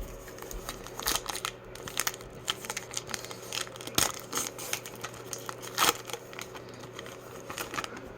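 A trading-card pack wrapper being torn open and crinkled, with irregular sharp crackles and rustles; the loudest come about 1, 4 and 6 seconds in.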